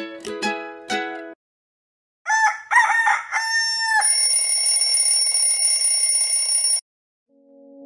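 Ukulele music ends about a second in; after a short pause a rooster crows, then an alarm clock rings steadily for nearly three seconds and cuts off suddenly.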